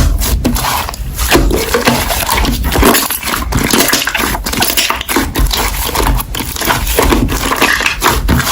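Slime being squeezed and kneaded by hand, a dense run of wet clicks, crackles and small pops.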